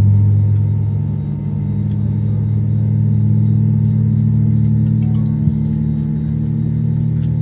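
Airbus A320neo's jet engines and airframe running with a loud, steady low drone, heard from inside the passenger cabin. The tone shifts slightly about a second in, and a few faint ticks come near the end.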